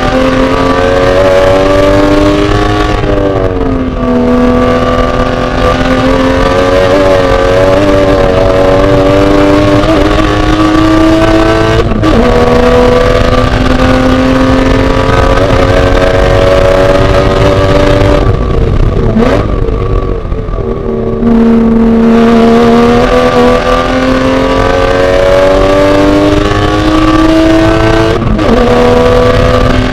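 Porsche Boxster race car's flat-six engine under hard acceleration, the pitch climbing through the revs. It drops sharply on upshifts about 12 and 28 seconds in. It eases off and falls in pitch around 3 to 4 seconds in and again around 19 to 21 seconds in, as the car lifts and slows for corners.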